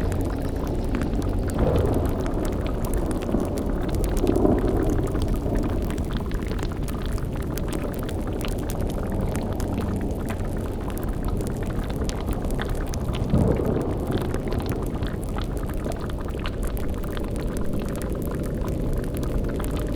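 Sound-effect cauldron boiling: steady bubbling liquid over a continuous low rumbling drone. Three brief deep swells rise out of it, about two, four and a half, and thirteen and a half seconds in.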